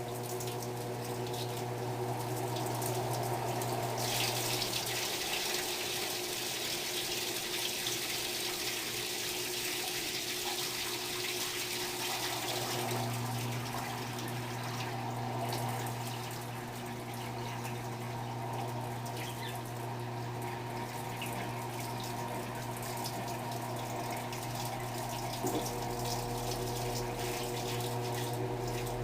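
Electrolux LTR10 top-load washing machine in its rinse cycle: water running and splashing into the tub over a steady machine hum. The water is loudest in the first half, while the hum drops out for several seconds.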